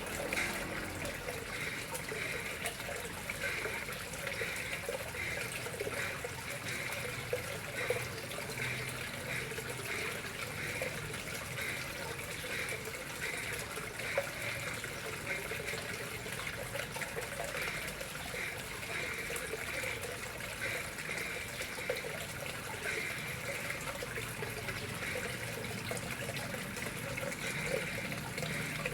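Water flowing and trickling steadily into a koi pond, an even, unbroken running-water sound.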